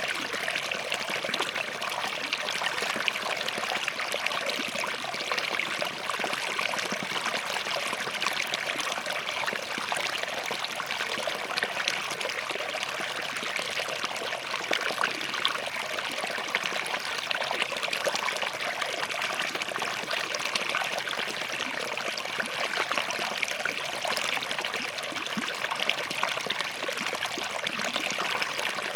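Shallow forest stream running over and between rocks, a steady babble with many small splashes and trickles.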